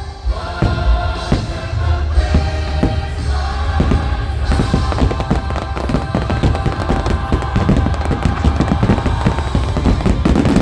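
Fireworks over the show's music soundtrack: booms land about every second at first. About four and a half seconds in they turn into a dense barrage of rapid bangs and crackles, typical of a fireworks finale.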